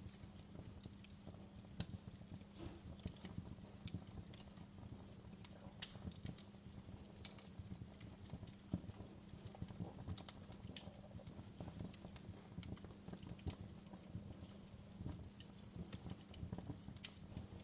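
Wood fire crackling: irregular sharp pops and snaps over the low rumble of the flames, with a steady low hum underneath.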